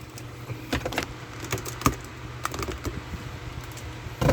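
Irregular clicks and taps of a plastic model kit's cardboard box and bagged parts being handled and opened, with a louder cluster of clatter near the end, over a low steady hum.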